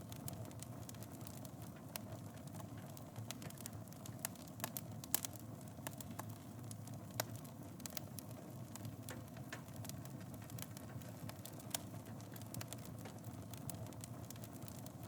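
Wood fire burning in a fireplace: a steady low rumble of flames with frequent irregular crackles and a few sharper pops.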